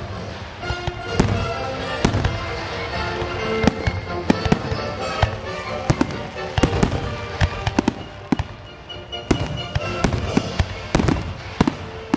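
A fireworks display with frequent sharp bangs and crackling shell bursts, denser near the end. Music plays underneath.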